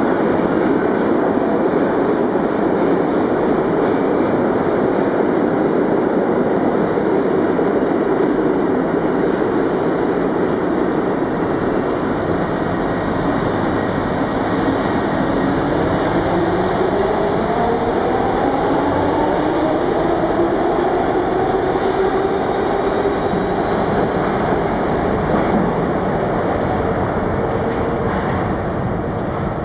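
R62A subway train running loud and steady, with clatter and wheel noise. About halfway through its traction motors begin a whine that rises in pitch over several seconds and then holds steady, typical of the train accelerating.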